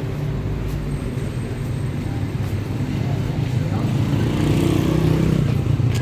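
A motor vehicle's engine running steadily with road noise, growing louder in the second half.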